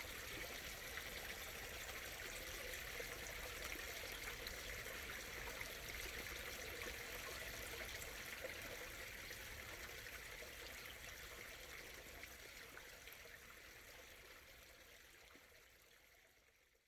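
Small stream murmuring and trickling steadily, then fading out gradually over the last several seconds.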